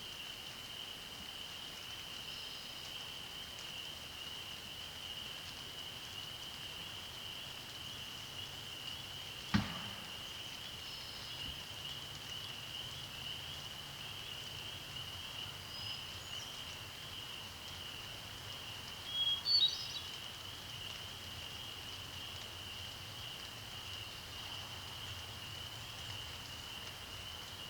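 A steady, high-pitched chorus of frogs calling without pause over a faint hiss. There is a single sharp tap about a third of the way in, and a short bird song phrase about two-thirds through.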